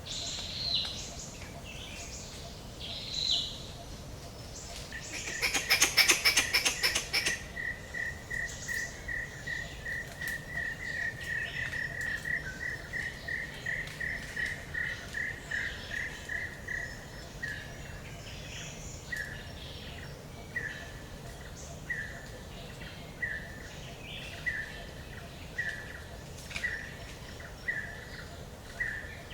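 Forest ambience with birds calling over a low background hiss. About five seconds in comes a loud, rapid rattling burst lasting a couple of seconds. Then a bird repeats a short note at one steady pitch, quickly at first, then spaced out to about one a second.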